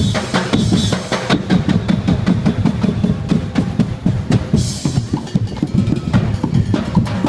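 A drum band playing a fast, steady beat on bass and snare drums, with a short clash of cymbals about four and a half seconds in.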